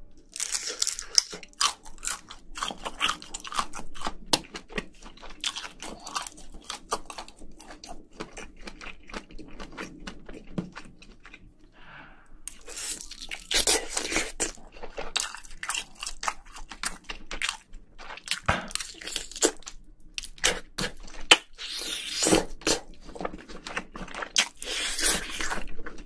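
Close-miked chewing and crunching of a mouthful of spicy braised seafood: wet, irregular crackles and smacks, louder in spells about halfway through and again near the end.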